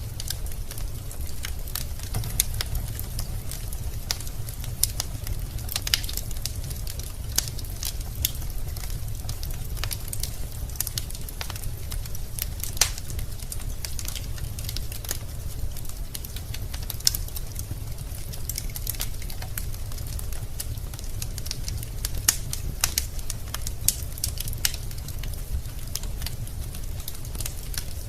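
Wood fire burning in a fireplace: logs crackling and popping in sharp, irregular snaps over a steady low rumble of the flames.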